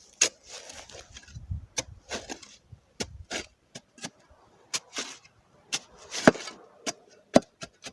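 Spade digging into soil: an irregular run of sharp knocks and short gritty scrapes as the blade cuts into the ground.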